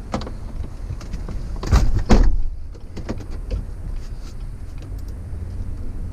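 Vehicle engine running with a steady low rumble, with two loud thumps close together about two seconds in and a few light clicks after.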